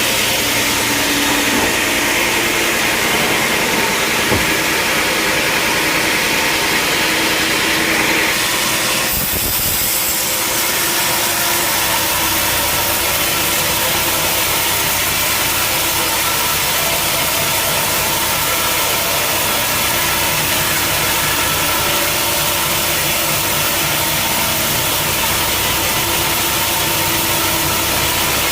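Sawmill machinery running with a steady engine drone. A higher, hissing sawing sound stops about eight seconds in, leaving the engine running on its own.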